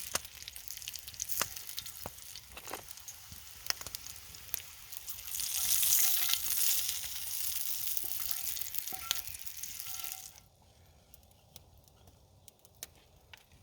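Fry-up breakfast sizzling in a pan over a campfire, a steady hiss with scattered pops. It grows louder about five seconds in, then drops away suddenly about ten seconds in, leaving only faint ticks.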